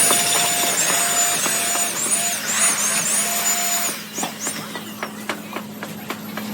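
A power tool running with a whine that dips in pitch several times, as if loaded and released while it cuts, then stops about four seconds in. A series of light knocks and clicks follows over a steady low hum.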